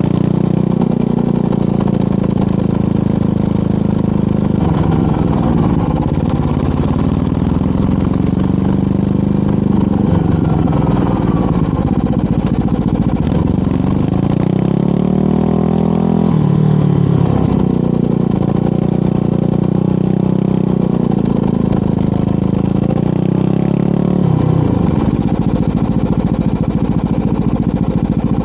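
Motorcycle engine running under way, its note rising and falling several times as the rider speeds up, shifts and slows.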